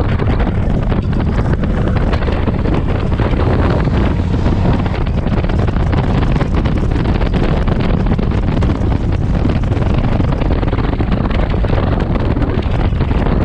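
Strong wind buffeting the microphone, a loud, steady rumbling roar.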